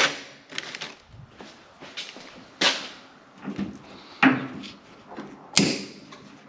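Zip ties being snipped off hoses with a cutter: about five sharp snaps and clicks at irregular intervals, along with the knock of the lines being handled.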